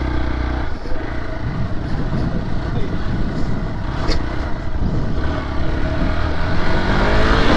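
Dirt bike engine running, steady at first, then uneven, its note rising and falling for the rest of the time.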